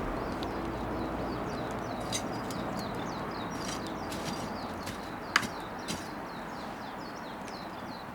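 Wood bonfire crackling: scattered sharp pops over a steady low rush, the loudest pop about five seconds in. A run of quick, high falling chirps goes on through most of it.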